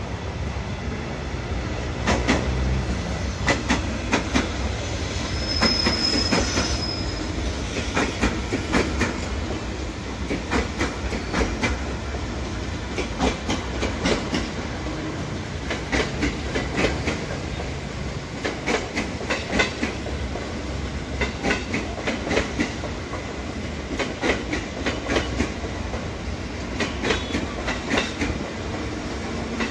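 KRL Commuter Line electric multiple-unit train passing close by, its wheels clacking over the rail joints in repeated clusters over a low running rumble. A brief high wheel squeal comes about six seconds in.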